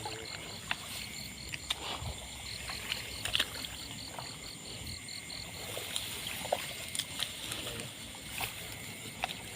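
A chorus of calling insects and frogs: steady high trilling and a pulsed call repeating about five times a second that stops about halfway through, with scattered light clicks and knocks.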